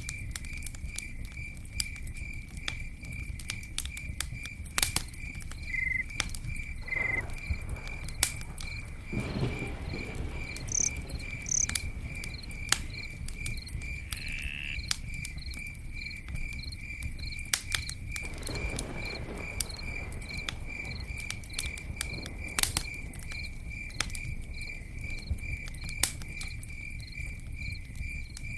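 Campfire crackling, with scattered sharp pops and a low rush of burning, over an insect chirping in a steady, even pulse.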